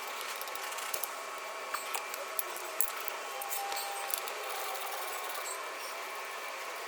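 Light, scattered metallic clicks and clinks from hand tools and loose parts during brake caliper bolt work, over a steady background hiss.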